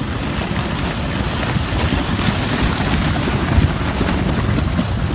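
Mudslide: a fast surge of water, mud and rocks rushing past as a steady, loud noise with a heavy low rumble, and wind buffeting the microphone.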